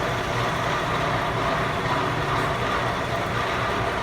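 Truck engine idling steadily, a low even drone with no change in speed.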